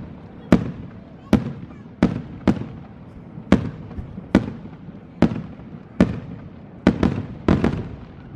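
Aerial firework shells bursting in a string of sharp booms, about eleven of them, roughly one a second and two close together near the end, each trailing off in a fading echo.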